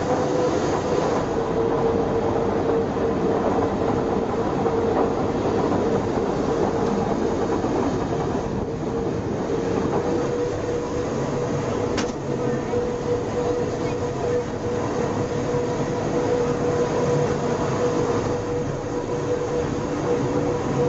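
A train running along the rails: steady rolling noise with a constant tone held throughout, and one sharp click about twelve seconds in.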